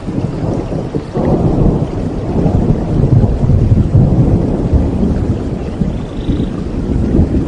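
Rolling thunder over steady rain: a low rumble swells about a second in, stays loud for a few seconds, then slowly fades.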